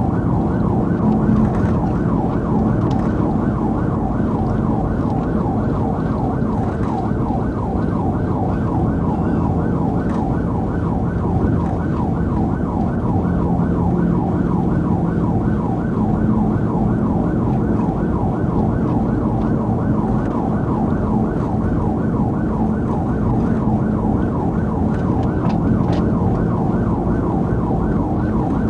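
Police car siren on a fast yelp, sweeping up and down several times a second without a break, heard from inside the pursuing cruiser. Under it runs a steady hum of engine and road noise from the car at speed.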